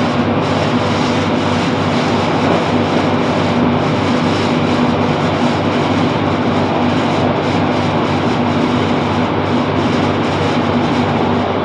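Class 165 Networker Turbo diesel multiple unit running steadily between stations, heard from inside the carriage: an even drone of engine hum and wheel-on-rail noise.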